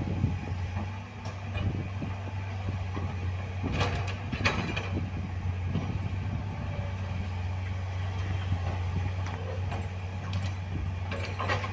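Heavy diesel machinery or truck engine running steadily, with a couple of short harsher bursts about four seconds in and near the end.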